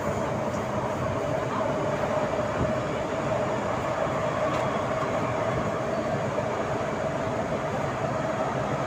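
MTR Island Line M-train, a Metro-Cammell electric multiple unit, running underground, heard from on board. Steady running noise with a constant mid-pitched hum throughout.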